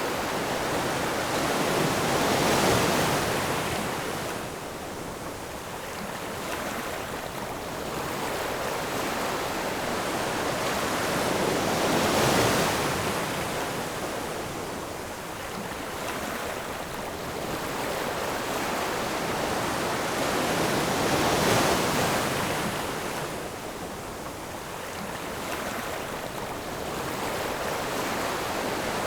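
Ocean surf: waves breaking and rushing in, the roar swelling to a peak and falling back three times, about nine seconds apart.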